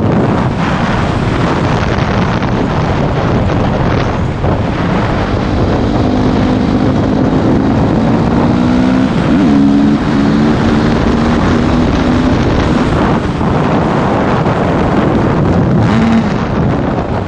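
Yamaha YZF 250 dirt bike's single-cylinder four-stroke engine running under way at speed, its pitch shifting up and down with the throttle, with heavy wind noise on the microphone.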